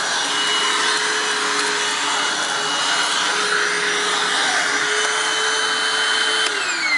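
Hoover WindTunnel Self-Propelled upright vacuum (U6485900, 12-amp motor) running on carpet, a steady loud whine with the noise of its self-propelled drive. Near the end it is switched off and the motor winds down in a falling whine.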